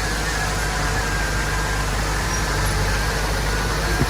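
Diesel engine of heavy earthmoving equipment running steadily, with a short knock near the end.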